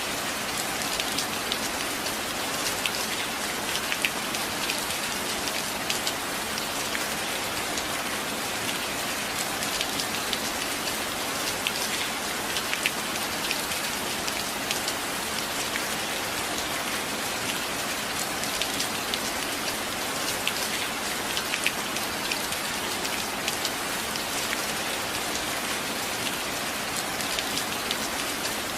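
Steady rain falling: a dense, even hiss with many sharp individual drop ticks scattered through it.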